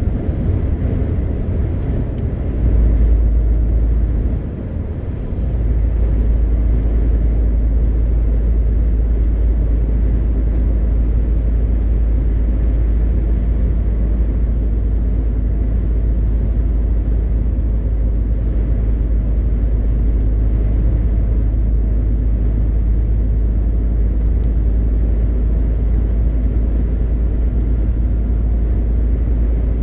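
MAN TGX 520 truck heard from inside the cab: the straight-six diesel and the road make a steady, deep drone while driving. The drone drops briefly about four seconds in, then returns and holds steady.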